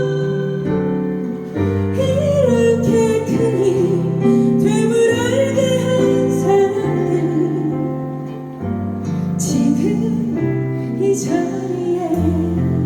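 Live song with women singing a slow melody with vibrato over keyboard accompaniment that holds sustained chords and bass notes.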